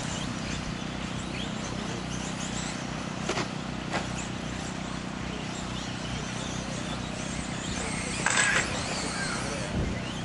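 Several 1/10-scale electric 2WD off-road RC trucks racing: thin motor whines rising and falling as they accelerate and slow, over a steady low hum. Two short sharp knocks come a little after three and at four seconds, and a short, louder rush of noise comes a little after eight seconds.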